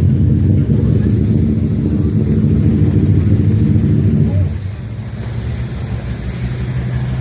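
A car engine running loudly with a deep exhaust rumble, dropping to a quieter steady running about four and a half seconds in.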